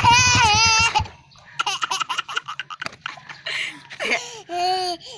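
A motorcycle exhaust running under a child's high, wavering cry, the engine cutting off about a second in. Choppy laughter and babbling follow.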